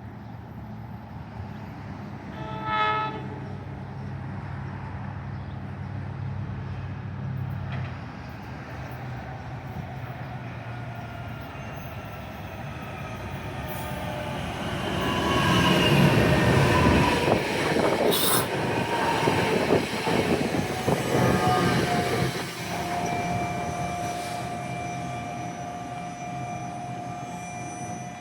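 A train approaching and rolling through the station, with a brief horn note about three seconds in. The wheels' rolling noise grows loud through the middle, with tones falling in pitch as it passes. Near the end a steady high squeal from the wheels holds.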